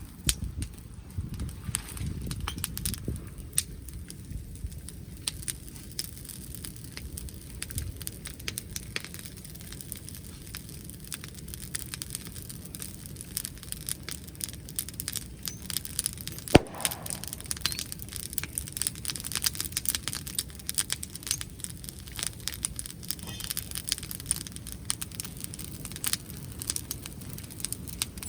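Wood bonfire crackling and popping in irregular snaps, with one sharper, louder pop about halfway through.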